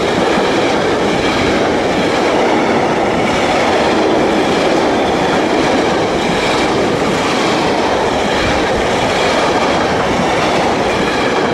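Intermodal freight wagons rolling past at speed: a steady, loud rumble and rattle of steel wheels on the rails.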